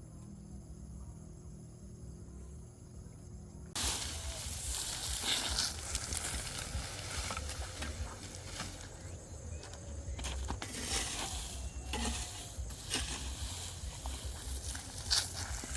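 Crickets chirring steadily and faintly, then about four seconds in the sound cuts abruptly to close rustling and scraping with many small knocks and clicks, like hands and feet working among debris.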